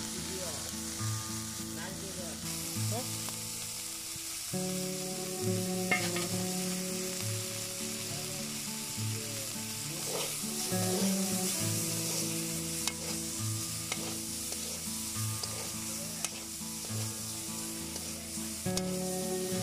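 Flat green beans sizzling as they fry in a metal wok, with a metal spatula stirring and scraping them against the pan now and then.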